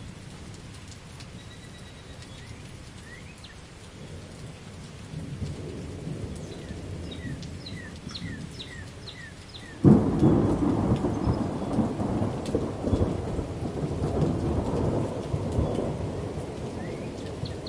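Thunderstorm: steady rain with low rumbling thunder, then a sudden loud thunderclap about ten seconds in that rumbles on for several seconds and slowly fades.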